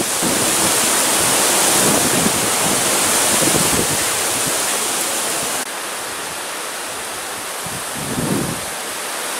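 Strong stormy wind with gusts near 85 to 90 km/h rushing steadily, easing a little about halfway through, with low buffeting of wind on the microphone near the end.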